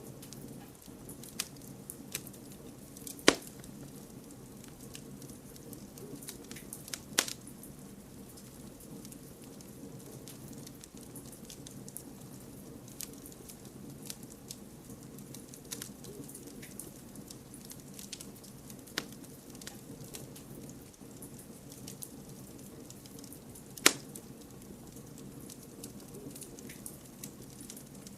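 Campfire burning and crackling: a steady low hiss under many small scattered snaps, with three loud sharp pops about three, seven and twenty-four seconds in.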